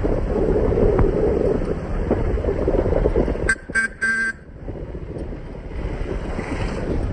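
Wind and road noise from a moving motorcycle, broken about three and a half seconds in by a vehicle horn giving three short toots, the last a little longer.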